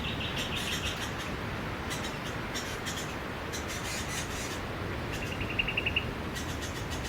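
Steady wash of sea waves with small birds chirping over it: a rapid trill in the first second and another, slightly lower, about five seconds in.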